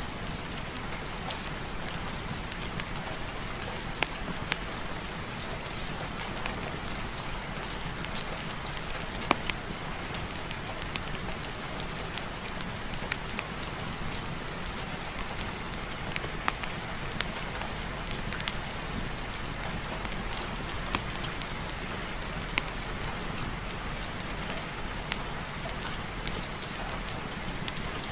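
Steady heavy rain, an even hiss, with scattered sharp ticks and pops throughout.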